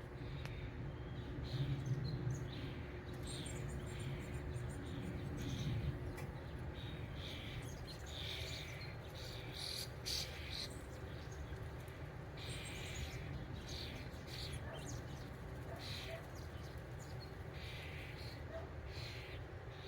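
Small birds chirping in short, scattered calls while squabbling at a birdbath, over a steady low rumble.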